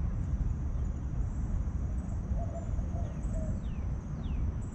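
Birds calling outdoors: a few short low notes, then three quick downward-sliding whistles in the second half, over a steady low rumble and a steady high hiss.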